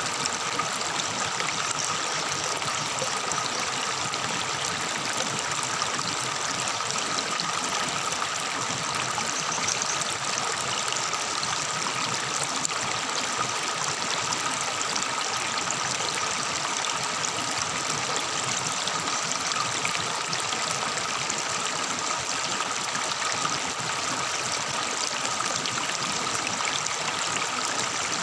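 Forest river babbling steadily, its water trickling and gurgling without a break. Two steady high tones run underneath throughout.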